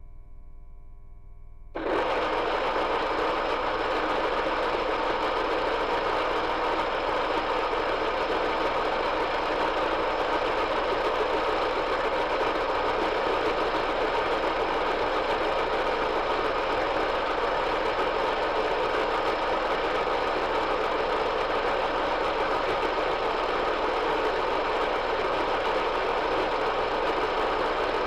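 Metal lathe running steadily, a dense mechanical whir of motor and gearing that comes in suddenly about two seconds in.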